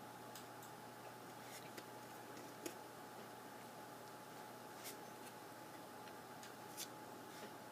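Faint, scattered clicks and light taps of hockey trading cards being handled and flipped through, about a dozen irregular ticks over a low steady room hum.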